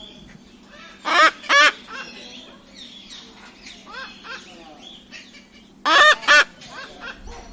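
Cockatoo calling: two loud pairs of short, arching honk-like calls, about a second in and again near the end, over fainter chattering calls.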